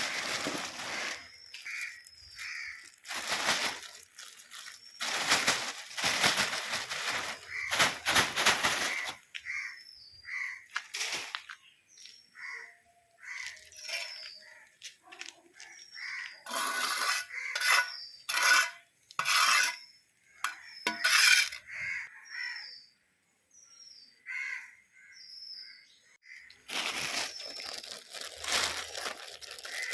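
Repeated bursts of rustling and crinkling, with small birds chirping in the background.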